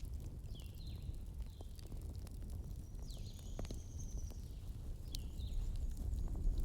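Wood fire crackling, with scattered sharp pops and snaps over a low steady rumble. Several short, faint high chirps and one longer high whistle come and go over it.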